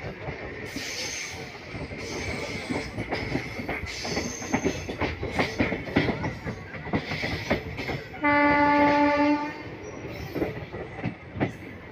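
Passenger train wheels clattering over the rails, heard from an open coach doorway. About eight seconds in, a locomotive horn sounds once on one steady pitch for just over a second; it is the loudest sound.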